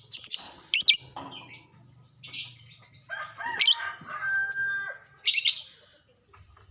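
Lovebird giving shrill, rapid chirps in short bursts, with a run of lower warbling notes in the middle.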